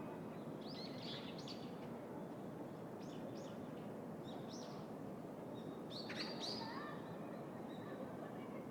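City park ambience: a steady low hum of distant city noise, with small birds chirping in short bursts several times and most loudly about six seconds in.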